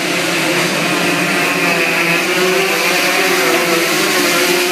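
Motorcycle engines running steadily at a race, several engine notes overlapping with pitches that waver slightly.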